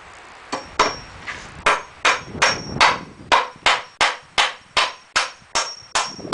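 Hammer striking repeatedly in a steady rhythm, about two to three blows a second, driving nails into the wooden frame, with a faint high ring after some blows.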